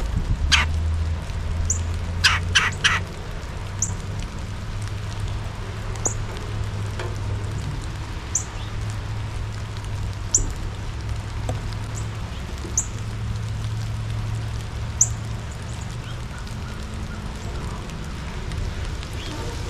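Wild birds calling: one harsh call, then three quick harsh calls a couple of seconds in, and a short high thin note repeated about every two seconds throughout, over a steady low hum.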